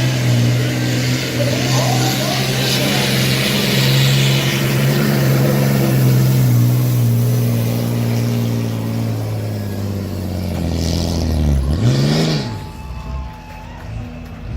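Diesel pickup truck engine at high revs under heavy load, dragging a weight-transfer sled, its pitch sagging slowly as the load builds. About eleven seconds in the revs fall sharply, rise once more, and the engine is let off and goes much quieter.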